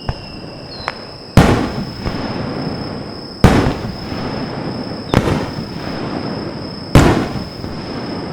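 Aerial firework shells bursting overhead: four loud booms about two seconds apart, each followed by a rolling echo, with two smaller cracks in the first second.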